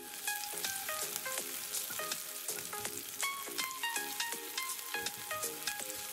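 Slit green chillies and chopped vegetables sizzling in hot oil in a non-stick wok, stirred and scraped with a silicone spatula. Light plinking background music plays over it.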